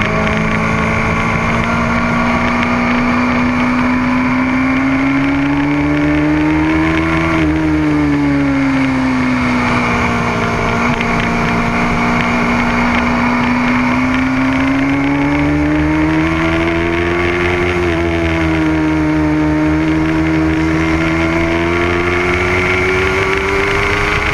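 Motorcycle engine running hard on a race track, its pitch climbing slowly and then dropping sharply twice, about seven seconds in and again near eighteen seconds, before climbing again.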